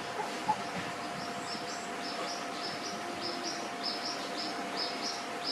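A small bird chirping in a quick repeated series of short, high notes, about four a second, over a steady background hiss with a faint steady hum.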